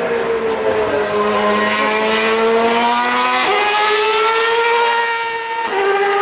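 A Formula One car's 2.4-litre V8 engine at high revs, a high whine that climbs steadily in pitch and steps down sharply about three and a half and five and a half seconds in, as at gear changes.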